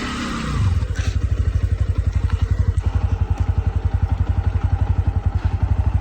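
Motorcycle engine running steadily at idle, a quick, even low pulsing with no revving. A brief clatter about a second in.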